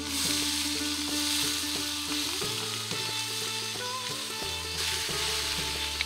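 Chopped starfruit being tipped into hot oil in an iron pan, setting off a loud sizzle that starts suddenly, eases a little midway and swells again as more pieces go in.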